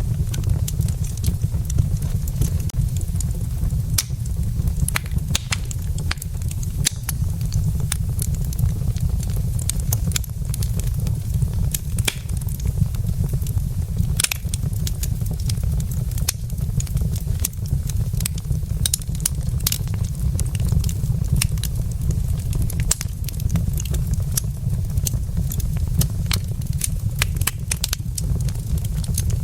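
Burning wood logs in a fireplace crackling and popping with irregular sharp snaps, over a steady low rumble.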